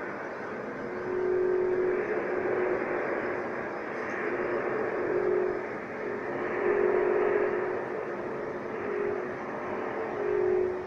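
Loud unexplained droning noise from overhead. A horn-like tone swells and fades about five times over a steady rumbling haze.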